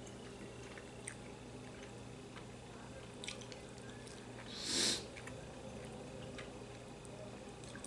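Quiet eating of army base stew (budae-jjigae): faint small mouth and utensil clicks, with one short wet slurp a little past halfway.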